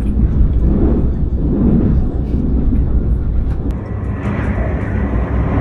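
KTX high-speed train running, heard from inside the passenger cabin as a steady low rumble.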